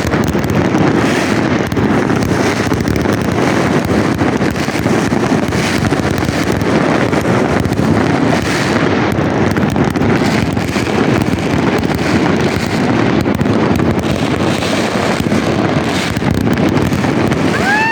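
Many fireworks going off at once all around: a continuous din of overlapping distant bangs and crackles, with wind on the microphone. Right at the end a whistle starts, falling in pitch.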